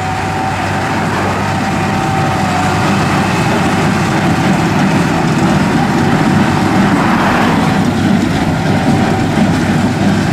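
Large John Deere farm tractor running steadily while powering a small square hay baler, its engine hum joined by a steady high whine. The sound gets louder over the first few seconds and stays strong to the end.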